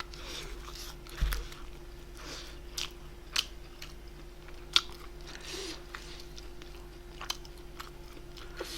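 Close-up chewing of grilled bulgogi: scattered wet mouth clicks and smacks, a few of them sharp, over a faint steady hum.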